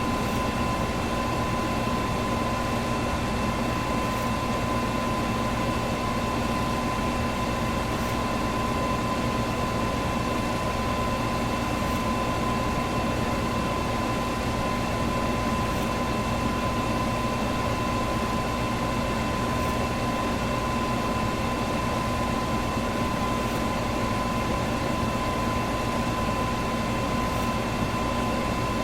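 Electric fan running steadily: a constant whoosh of moving air with a steady motor hum and a thin whine.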